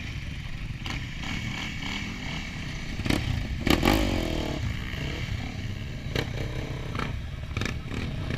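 Enduro dirt-bike engine running with a steady low rumble, revving up briefly about four seconds in, with scattered clattering knocks.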